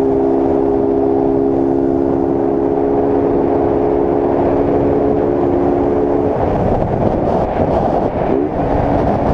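Honda CG Start 160's single-cylinder engine, running with its air filter removed, holds a steady high-speed note at highway speed under heavy wind rush. About six seconds in the engine note drops away as the throttle is closed and the bike slows, leaving mostly wind noise.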